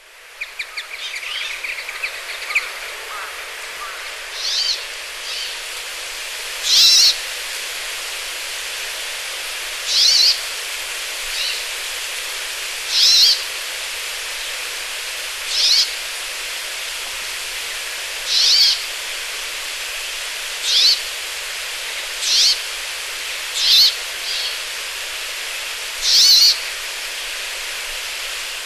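Brambling song: a short, high note of about half a second, repeated every two to three seconds over a steady hiss. There is some quicker twittering in the first few seconds.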